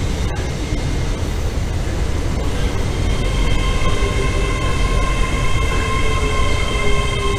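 Great Western Railway Hitachi Intercity Express Train passing, a steady low rumble of carriages and wheels on the rails. About three seconds in, a steady high whine of several tones joins the rumble and holds.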